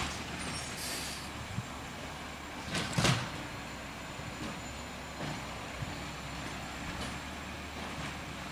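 Garbage truck's engine running steadily, with one short, loud burst of hissing noise about three seconds in.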